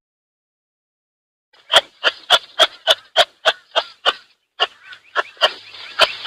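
Kangaroo making a rapid run of short, sharp huffs, about three a second, starting after about a second and a half of silence.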